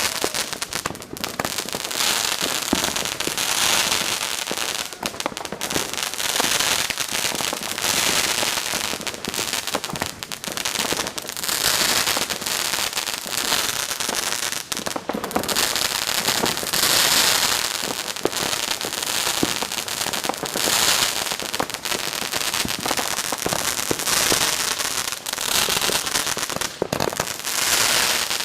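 Fireworks going off, a dense run of crackling and popping with countless small sharp reports that swells and eases every few seconds.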